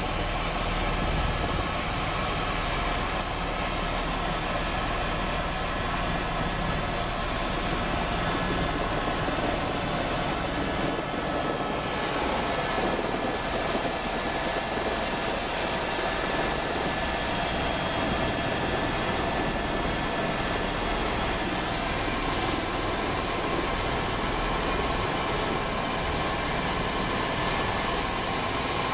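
Helicopter turbine and rotor running steadily: a dense, even mechanical noise with a few faint steady whining tones.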